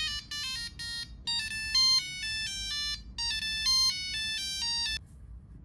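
Monophonic Nokia 3310 ringtone melody of short, buzzy single notes, played in repeating phrases and cutting off abruptly about five seconds in.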